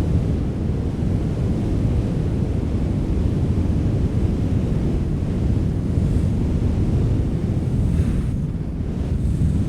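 Wind blowing steadily: a deep rushing noise that swells and eases a little, with a brief airier hiss near the end.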